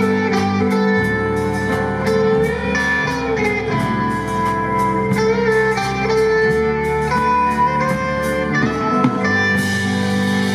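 Live band playing an instrumental passage, with a lead guitar holding and bending notes over bass and drums.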